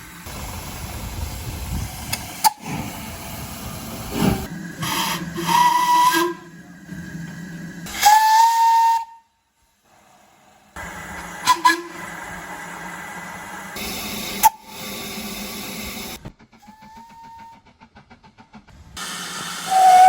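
Steam locomotive whistles in a string of short clips: several brief whistle blasts, the loudest about eight seconds in, over steam hiss and rumble. The clips change with abrupt cuts, with a short silence about nine seconds in.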